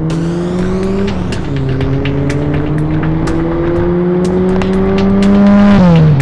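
Fiat 126p fitted with a Fiat Seicento 1108 cc four-cylinder SPI engine accelerating hard: the engine note climbs, drops at a gear change about a second in, climbs steadily through the next gear, and drops again at another gear change near the end. Scattered sharp clicks run through it.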